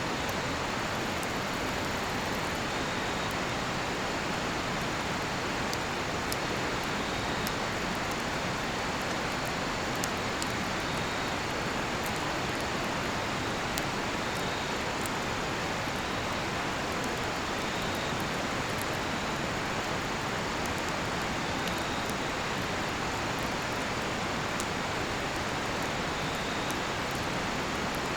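Steady rush of a river, with small sharp crackles and pops from a cedar-wood campfire throughout and a faint cricket chirp about every two to three seconds.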